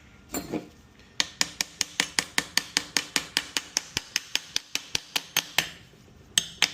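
Socket ratchet wrench clicking in a fast, even series of about five clicks a second, briefly pausing and starting again near the end, as a fastener is worked loose on a Stihl HT131 pole saw.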